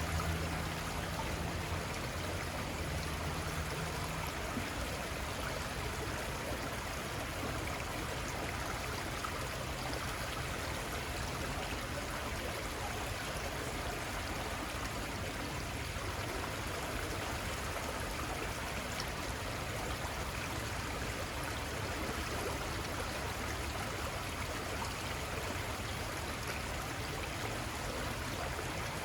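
Small river flowing steadily over its bed, an even rush of water. A low hum is heard underneath at first and fades out about four seconds in.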